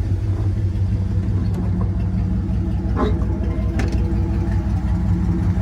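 A 1995 Dodge Ram 1500's 5.9-litre Magnum V8 idling steadily, with no knocking or ticking. The exhaust is a little loud because the muffler has been cut off. Two faint clicks sound near the middle.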